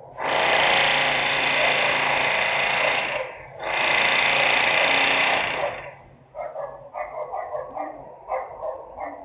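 Two long blasts of harsh, loud industrial machine noise, about three seconds and then about two seconds, with a brief break between them. A dog then barks repeatedly.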